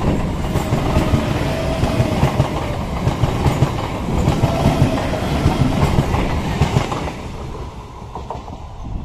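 Electric multiple unit (EMU) commuter train passing close at speed, its wheels clattering rapidly over the rail joints under a heavy rumble. About seven seconds in the sound drops sharply to a much quieter level.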